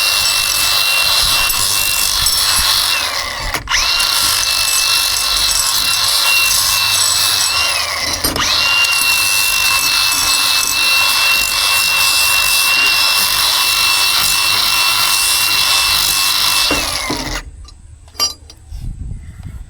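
Grinder fitted with a flap wheel running at speed against metal: a steady high whine over an abrasive hiss. It eases off and spins up again twice, then winds down and stops near the end.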